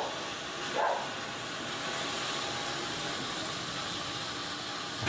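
Sawmill machinery running with a steady hissing noise, with one brief sharp sound about a second in.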